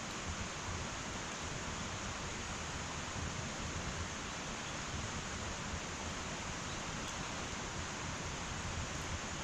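Wood fire burning in an irori, a sunken Japanese hearth: a steady hiss with a few faint pops.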